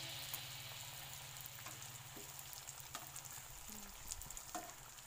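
Banana spring rolls deep-frying in oil in a wok: a faint sizzle with small crackles and a few light clicks as metal tongs turn them.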